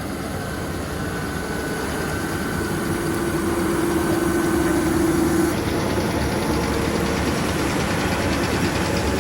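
Tractor and round baler running steadily while baling straw, with a steady whine that holds for a few seconds in the middle and then drops away.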